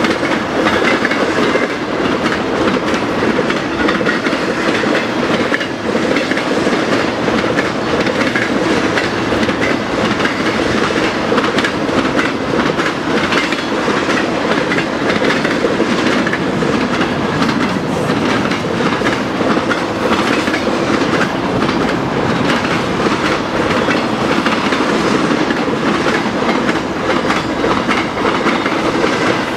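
Intermodal freight train's cars, trailers on flatcars and double-stacked containers in well cars, rolling steadily past, the wheels clicking over the rail joints.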